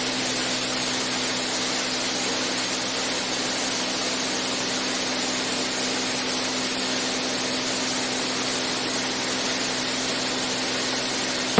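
Steady drone of the Beechcraft A36 Bonanza's single piston engine and propeller in level flight, heard in the cockpit as an even rushing hiss over a constant low hum.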